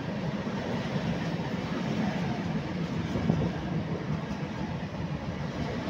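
Freight train of open-top gondola wagons rolling past close by: a steady rumble of wheels on the rails.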